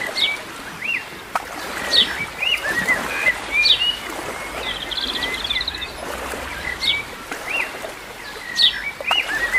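Small birds chirping and calling: many short up-and-down chirps, with a brief rapid trill about halfway through, over a steady background hiss.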